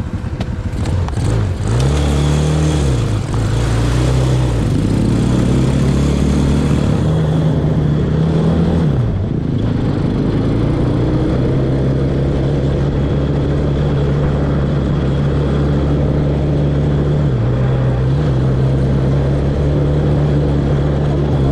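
Off-road vehicle engine under way, revving up and easing off several times during the first half, then running at a steady speed with one brief drop in revs near the end.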